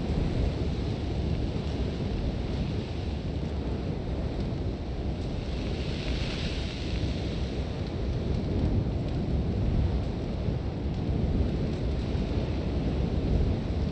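Sandstorm wind with a deep, steady rumble and hiss. About six seconds in, a gust brings a brief swell of higher hiss from blowing sand.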